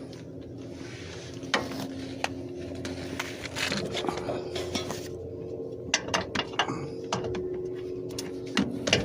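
Scattered metallic clicks and clinks of hand tools, a socket and ratchet, on the truck's underbody bolts, over a steady low hum.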